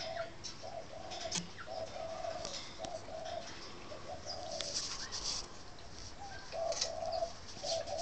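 A bird cooing over and over, each coo a short low note coming roughly once a second, with scattered brief high chirps from other birds.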